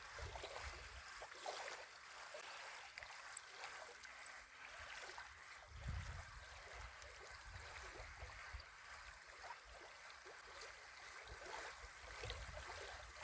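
Faint water lapping and gurgling at the edge of a lake, with wind rumbling on the microphone in uneven gusts.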